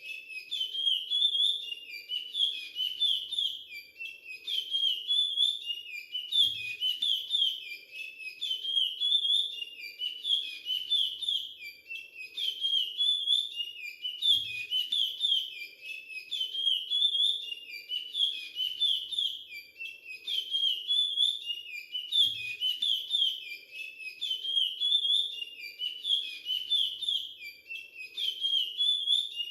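Chestnut-bellied seed-finch (curió) singing the Timbira 'virado clássico' dialect, repeating its whistled song phrase over and over with barely a pause.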